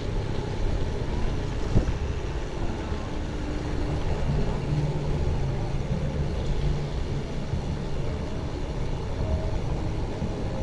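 Steady rushing noise of a mountain bike ride in the rain: wind on the action camera's microphone and tyres on the wet trail, with a single click about two seconds in.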